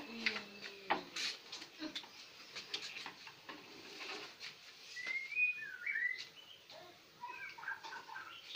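A bird chirping, with short chirps gliding up and down from about halfway through and a quick run of chirps near the end. Before that, scattered light crackles and clicks from a clear plastic sheet being handled.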